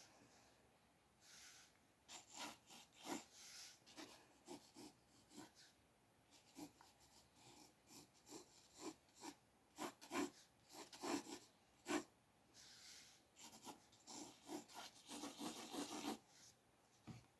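Pencil sketching on paper: quiet, irregular scratchy strokes, some short and quick, a few longer sweeping ones, with brief pauses between.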